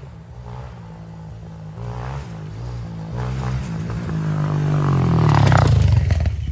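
Honda CRF125F's single-cylinder four-stroke engine under hard acceleration, the revs climbing in several steps and getting louder, then the throttle shut off about six seconds in.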